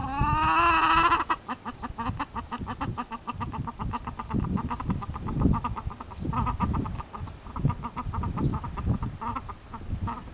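A chicken gives one drawn-out, wavering call, then a long, rapid rattling run of clucks that goes on with brief breaks to the end.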